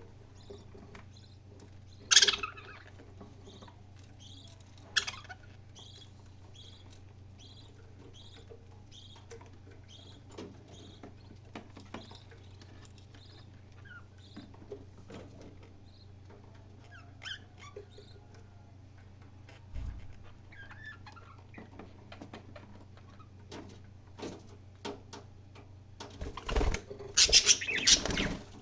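Pet parrot making short chirps and calls with scattered clicks, over a steady low hum. There is a loud call about two seconds in and a run of louder calls near the end.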